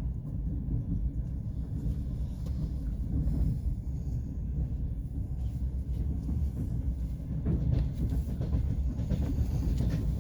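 Passenger train running along the track: a steady low rumble, with the wheels knocking over the rail joints now and then.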